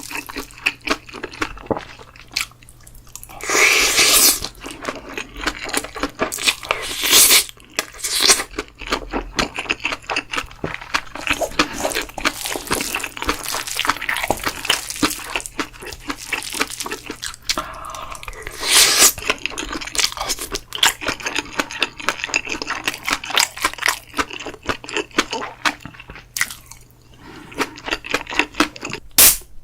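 Close-miked eating of bibimbap: crunchy chewing with many short, quick clicks, and a few louder, noisier stretches of about a second each.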